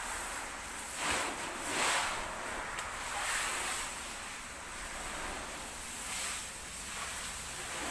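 Water splashing and running in irregular swells as a car is washed by hand with a bucket of water.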